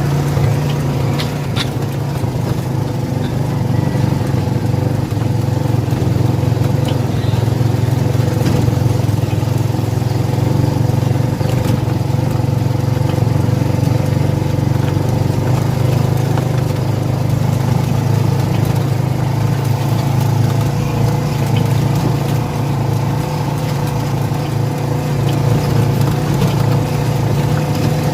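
A motor vehicle's engine running steadily, a constant low drone that does not rise or fall.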